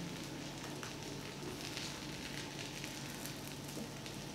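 Faint, steady sizzle of masala-coated goat brain pieces in a little oil on a flat tawa. The pan is still hot from cooking after the heat was switched off, and a few light crackles sound through it.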